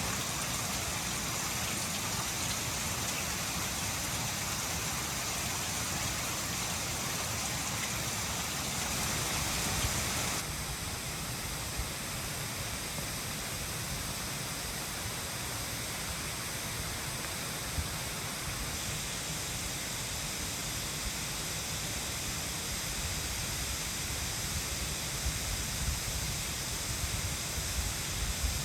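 Mountain stream running: a steady rushing wash of water. About ten seconds in the sound shifts suddenly and its high hiss thins.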